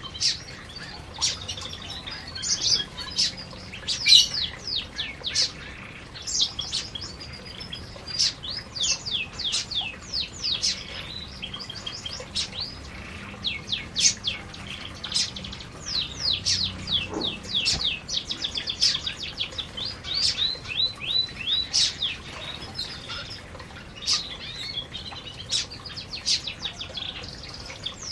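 Several canaries chirping and singing together, a continuous stream of quick, high chirps and rapid trills.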